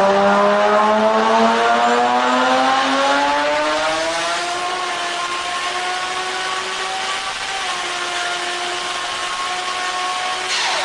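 Turbocharged Toyota Supra engine and exhaust pulling steadily under acceleration, its pitch climbing for about four and a half seconds, then holding an even note with a slight dip before cutting off near the end.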